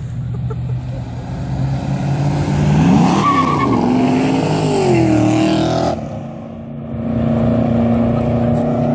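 A car engine revving hard as the car accelerates away: the pitch climbs steeply about three seconds in, wavers and falls back, then drops off suddenly. It gives way to a steady engine drone near the end.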